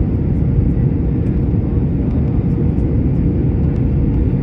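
Airliner cabin noise during landing: a steady low rumble of the engines and the air rushing past the fuselage, with a faint steady hum on top.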